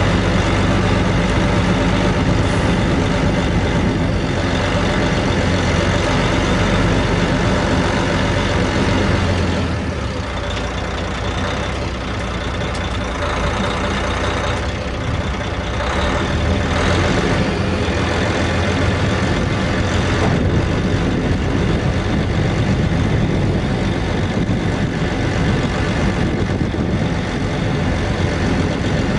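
Engine of a 1998 International 2674 dump truck running steadily, dipping slightly in level about ten seconds in.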